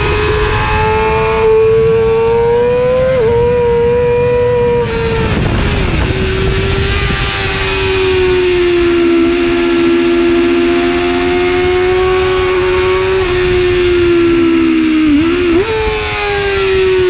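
2009 Yamaha YZF-R6's 600 cc inline-four engine screaming at high revs under full throttle, heard onboard, with the pitch dipping briefly and snapping back up about three seconds in and again near the end, a drop in pitch around five seconds, and a long stretch held almost steady in between. Wind noise rushes underneath.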